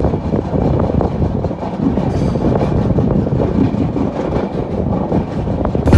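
Passenger train running at speed, heard at an open coach door: a steady rumble of wheels on rails and rushing air, with an occasional click from the track.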